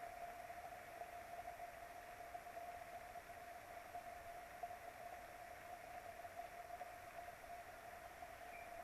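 Faint steady hiss with a constant mid-pitched hum underneath: background noise from a remote nest camera's microphone, with no eagle calls standing out.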